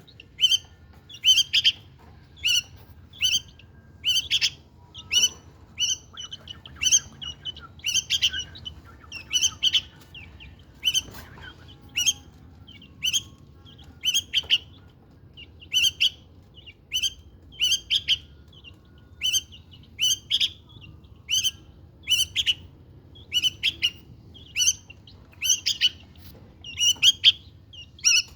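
White-spectacled bulbuls (Syrian bulbuls) calling, a steady series of short high chirps repeated about once or twice a second.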